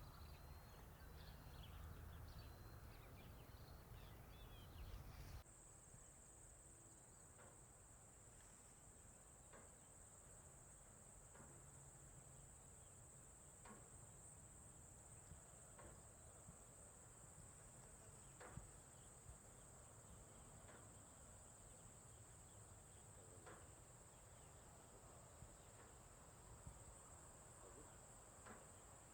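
Faint outdoor ambience: a few soft bird chirps, then an abrupt switch about five seconds in to a steady high chorus of crickets, with occasional faint ticks.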